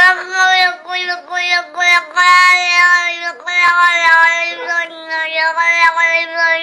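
A high voice holding long, sung notes one after another, with short breaks and small slides in pitch between them.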